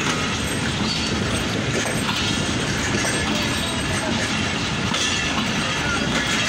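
Passenger coaches of a train rolling slowly past on the track, a steady noise of wheels running over the rails.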